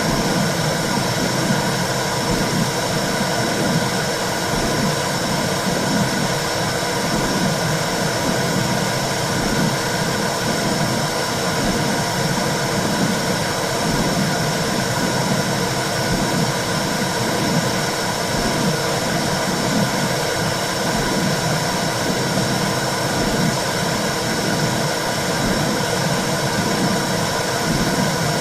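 Womb sound for soothing a baby: a steady whooshing noise with a low, rhythmic pulsing underneath that keeps repeating without a break.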